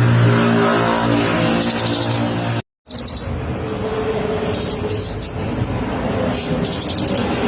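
Kolibri ninja sunbird singing in rapid, closely spaced high trills and chirps in short bursts. A steady low engine hum runs under the first two or three seconds, and all sound drops out for a moment near the middle.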